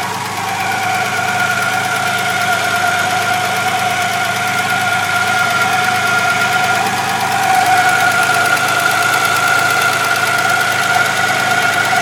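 BMW E21 engine idling with a steady high-pitched whine over the engine note: the strange noise that shows up once the engine is hot.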